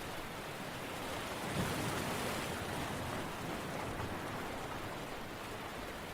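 Steady rushing water noise that swells about one and a half seconds in and then slowly eases off.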